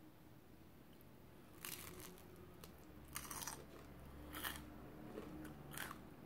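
A person chewing crunchy toast dipped in runny egg yolk, close to the microphone: four crisp crunches, the first just under two seconds in, then about every second and a half.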